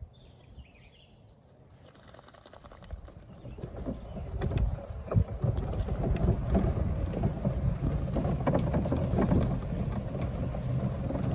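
A vehicle under way, with rushing wind noise on the microphone. It builds up from quiet about two seconds in and runs loud and steady from about four seconds on, with a busy clatter through it.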